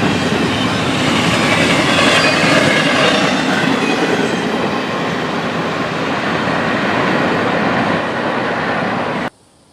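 Freight train cars rolling past, with steady wheel-on-rail clatter and some thin high squealing. The sound cuts off suddenly near the end, leaving faint outdoor air.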